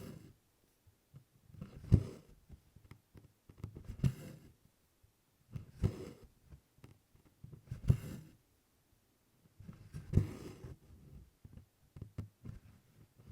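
Stranded cotton embroidery floss drawn through 24-count cotton Aida cloth with a needle, a short rasp about every two seconds as each tent stitch is pulled through, with faint small ticks in between.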